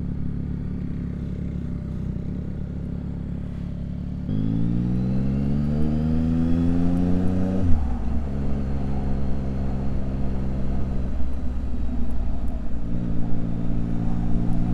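2024 Yamaha MT-09 SP's inline-three engine through an SC Project titanium exhaust. It runs steadily, then from about four seconds in accelerates with a rising pitch. The pitch drops sharply at a gear change near eight seconds, and the engine then runs steadily again.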